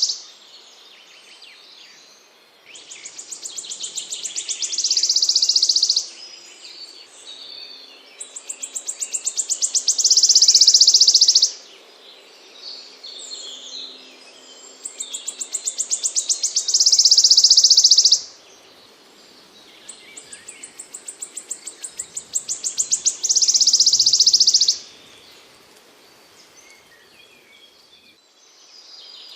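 A small songbird singing the same phrase four times, every six seconds or so: each one a quickening run of high notes that swells into a loud, dense high trill, with softer chirps in the gaps.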